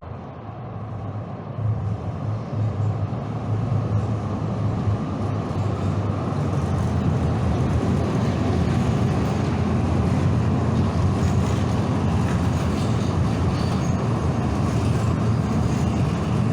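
Train running: a steady low rumble of wheels and car noise that builds over the first several seconds and then holds steady.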